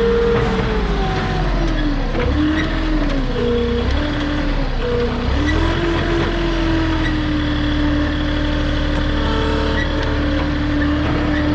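Truck-mounted forklift's engine revving up and down as the driver works the hydraulics with a heavy load on the forks, then holding at a steady, higher speed from about halfway through.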